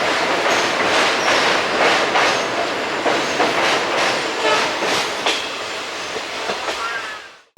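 ICF passenger coach running along the track: steady rolling rumble with repeated clickety-clack of wheels over rail joints and a few brief squeals from the wheels. It fades out near the end.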